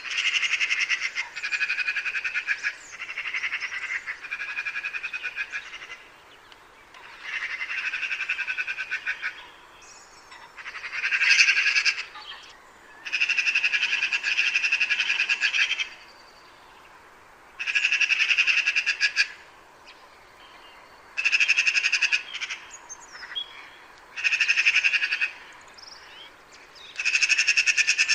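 A magpie chattering: bouts of a rapid, harsh rattle, each one to three seconds long, repeated about eleven times with short pauses between them.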